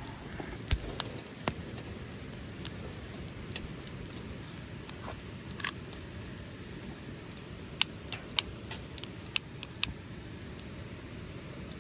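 Wood campfire burning with a steady hiss and irregular sharp crackles and pops, several of them close together about eight to ten seconds in.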